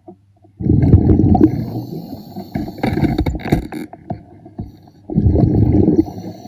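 Exhaled breath bubbling out of a diver's breathing gear underwater: a long gurgling burst of bubbles starting about half a second in, a few more around three seconds, and a second breath about five seconds in, over a faint steady low hum.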